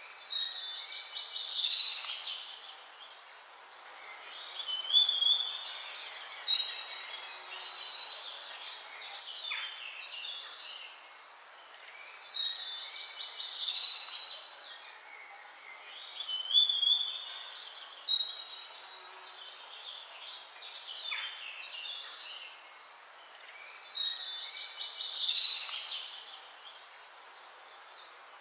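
Songbirds singing in bursts of chirping, trilling and whistled phrases every few seconds over a steady background hiss.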